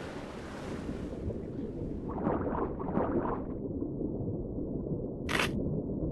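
Water sound effect: a steady rush of water with a few splashy surges in the middle, then a single short, sharp swish near the end.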